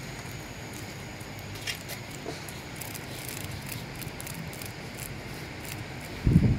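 Steady outdoor background noise with a few faint ticks, then a brief loud low thump on the microphone near the end.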